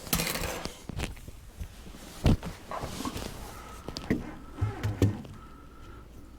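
Scattered knocks and rustling as plastic drain pipe and fittings are handled and test-fitted, with one sharper knock about two seconds in.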